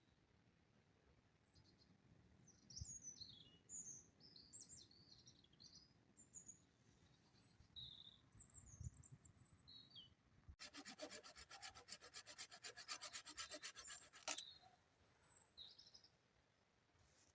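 Small birds chirping with short, quick high notes. Then a rapid, even rattle of about eight pulses a second runs for nearly four seconds. Two low dull knocks come earlier.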